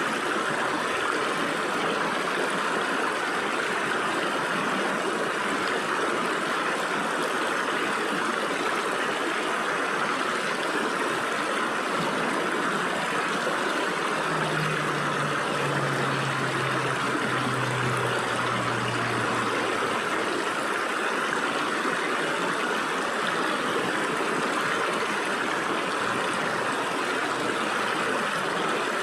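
Stream water flowing and splashing through gaps between rocks, a steady, even rush.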